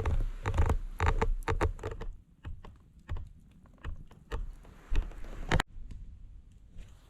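Campfire of burning timber crackling, with irregular sharp pops and snaps over a low rumble.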